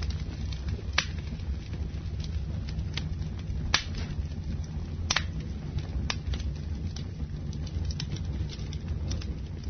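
Campfire burning: a steady low rumble under sharp, scattered crackles and pops of the burning wood, the loudest pops about a second in, just before four seconds and about five seconds in.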